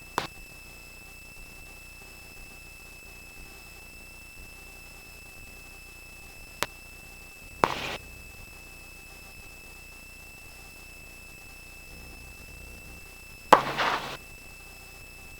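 Steady high-pitched electronic whine on the helicopter's intercom audio feed, with no rotor noise heard, broken by a couple of sharp clicks and two short bursts of hiss, about halfway through and near the end, like a microphone being keyed.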